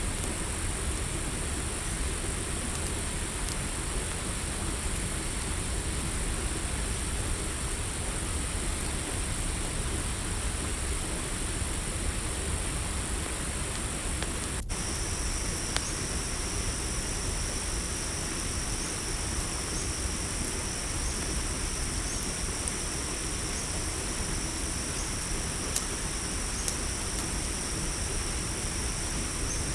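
Night ambience of crickets trilling steadily at a high pitch over the low rumble of a campfire, with a few sparse crackle pops. About halfway through, a second, slightly lower cricket trill joins in.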